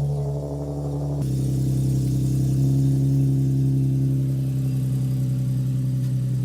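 Nissan 370Z's 3.7-litre V6 engine and exhaust running at a steady engine speed, with a slight step up in pitch about a second in.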